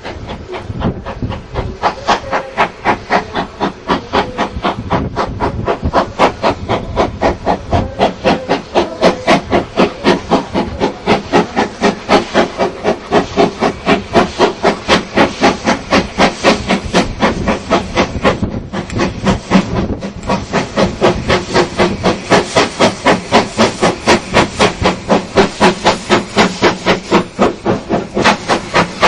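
Steam locomotive working hard, its exhaust chuffing in a steady, rapid rhythm of several beats a second. The beats build up over the first few seconds and stay loud, with a brief lull about two-thirds of the way through.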